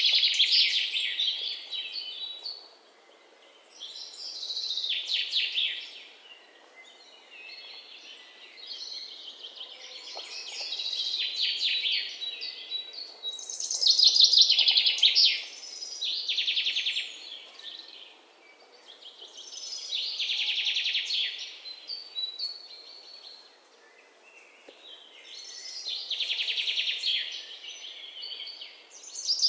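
Songbird singing: fast trilled phrases about two seconds long, repeated every few seconds, with quieter song between them over faint background hiss.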